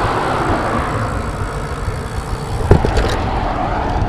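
Wind buffeting the microphone on a moving road bicycle, with steady rumbling road noise, and one sharp knock about two-thirds of the way through as the bike jolts over a bump.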